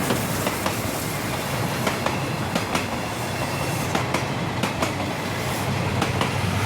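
Steam-hauled passenger train rolling past, a steady rumble of its coaches with a string of irregular clicks and clacks from the wheels over the rail joints.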